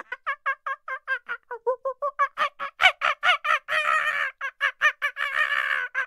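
A bird calling in a fast run of short, repeated notes, about five or six a second. From about two seconds in the notes grow louder, breaking twice into longer, harsher stretches.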